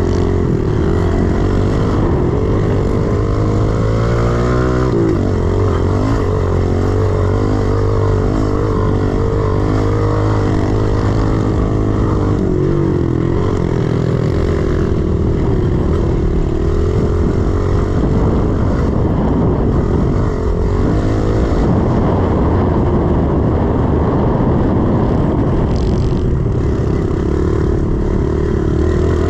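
A 110cc single-cylinder four-stroke pit bike engine being ridden hard around a dirt track. The engine revs rise and fall with throttle and gear changes.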